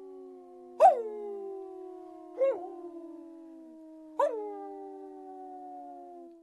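Several dogs howling together: long drawn-out howls at different pitches, each sliding slowly down, overlap throughout. Three short, loud yelps, each dropping quickly in pitch, come about a second and a half apart. The sound cuts off suddenly at the end.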